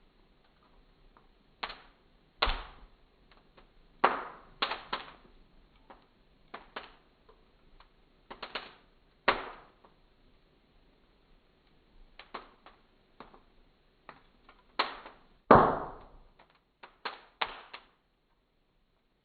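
Fire crackling: irregular sharp pops and snaps from the embers, a few much louder cracks among them, the loudest about four-fifths of the way in, then a brief lull near the end.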